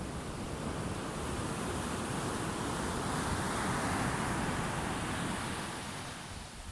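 Sea waves: one wave swells, breaks and washes up, building to its loudest about halfway through and fading near the end. Wind buffets the microphone underneath.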